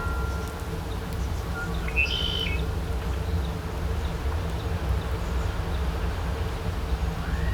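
Small songbirds chirping, with a short burst of chirps about two seconds in and a few faint calls elsewhere, over a steady low hum.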